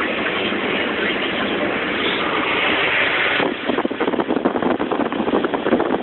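Car driving in the rain: a steady wet hiss, which about halfway through turns into a rapid, irregular patter of clicks.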